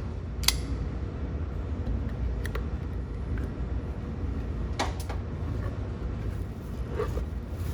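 A few scattered sharp clicks and knocks, four small ones spread over several seconds, from the boxed transmission kick-start cover being handled and unpacked, over a steady low rumble.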